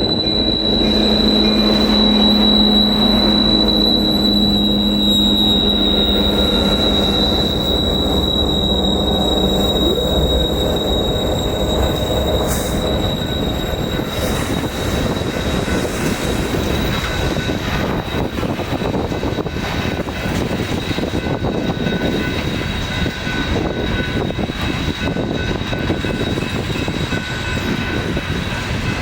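Loaded coal train rolling past, its steel wheels on the rail making a steady rolling noise with a continuous high wheel squeal. A diesel locomotive's low drone runs underneath and drops away about ten seconds in.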